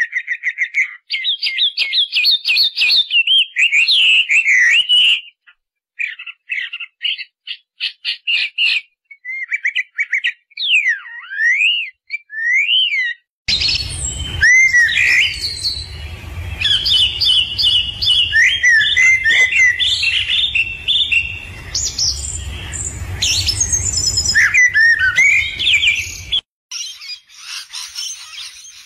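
Songbirds singing in a string of different recordings: warbling song phrases, then scattered chirps and sliding whistles, then dense song over a low rumble, ending in a fast high trill.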